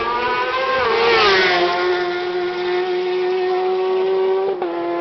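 Racing superbikes at full throttle passing on the road course. One sweeps past about a second in, its engine note falling sharply as it goes by. Another bike's high, steady engine note carries on, with a short break near the end, like a gear change.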